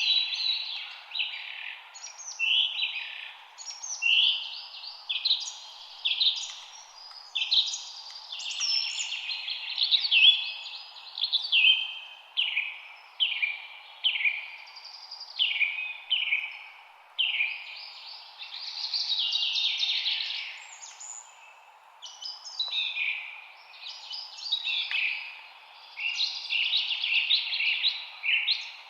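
Songbirds chirping and singing in a dense chorus: short, high, mostly falling calls follow one another almost without pause, over a steady faint background hiss.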